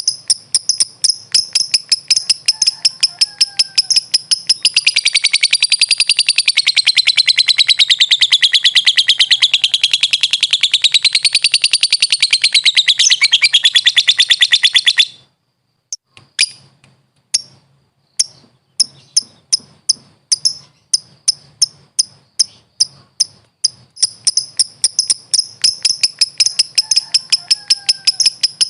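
A lovebird singing its long, fast chattering trill (ngekek): high, rapid chirps that run together for some ten seconds. About halfway it breaks off briefly, then starts again with separate chirps that come faster and run back into a trill near the end.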